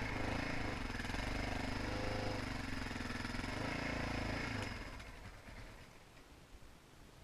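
Motocross motorcycle engine running steadily, then fading away about five seconds in.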